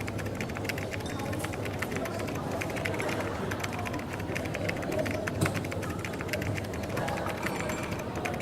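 Rapid keyboard typing: a quick run of light clicks over coffee shop ambience with a steady low hum and faint chatter. There is one louder knock about five and a half seconds in.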